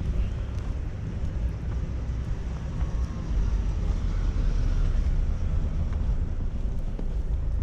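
City street ambience in a snowstorm: wind rumbling and buffeting on the microphone over passing traffic.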